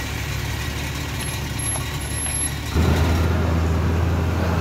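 Truck engine running with a steady low hum that jumps suddenly louder and heavier about three seconds in.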